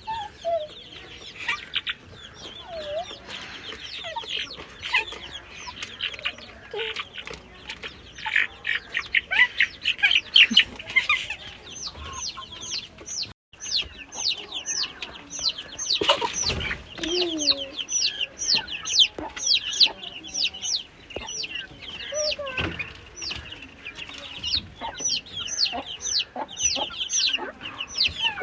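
A flock of chickens calling, dominated by chicks peeping in rapid, high, falling notes, several a second, with a few louder, lower calls partway through.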